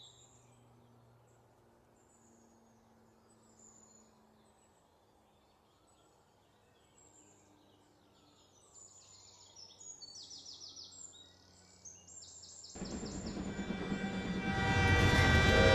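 Faint outdoor ambience with small bird chirps, then about 13 seconds in a train horn sound effect starts and swells, lead-in to a train-themed song.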